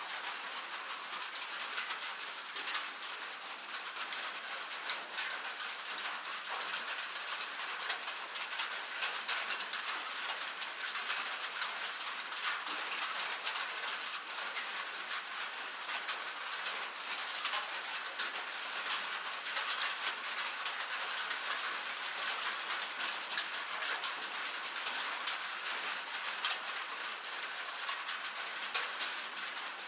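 Steady rain on a metal roof: a dense, even patter of small drop ticks over a constant hiss.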